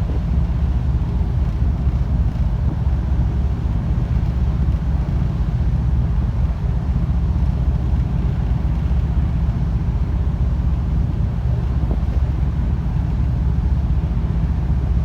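The car ferry Katsuragi's engines running steadily: a low, even drone with a hiss of wind and water over it.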